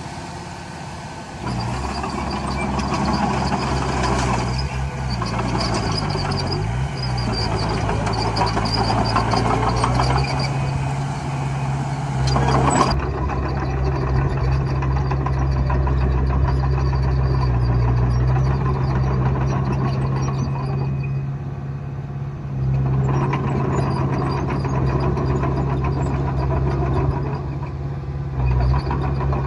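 Komatsu D20A bulldozer's diesel engine working under changing load, its pitch dipping and recovering a few seconds in. Clanking and rattling run through the first half, ending with a sharp click, and the engine runs steadily after that.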